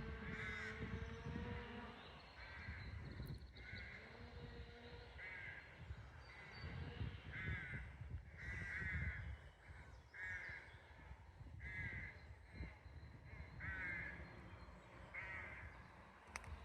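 A bird cawing over and over: about a dozen short, harsh caws, one every second or two.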